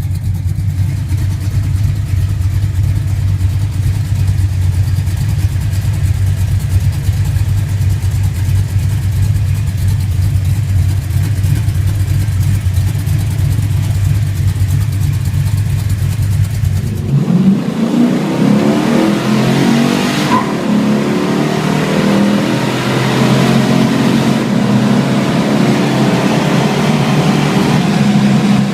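Car engine running with a steady low rumble, then about two-thirds of the way through it changes abruptly to a higher engine note that rises in pitch as the car accelerates.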